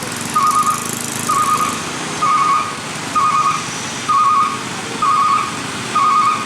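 A vehicle's reverse warning beeper sounding a warbling electronic beep about once a second, seven times, over a running diesel engine.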